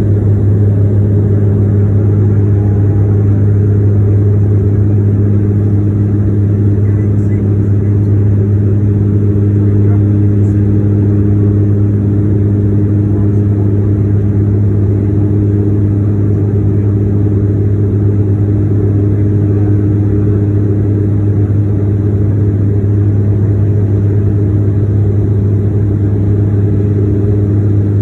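Inside the cabin of a Bombardier Q400 turboprop at takeoff power: the propellers' loud, steady low drone, with a few even overtones above it, over a constant haze of engine and airflow noise.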